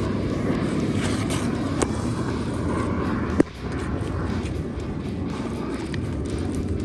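Wind rumbling on the microphone, a steady low buffeting, with a single sharp tap about three and a half seconds in, after which the rumble briefly drops away.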